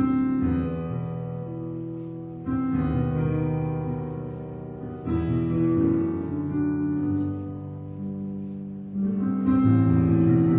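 Instrumental music: slow sustained chords on a plucked string instrument, a new chord struck about every two and a half seconds and left to fade.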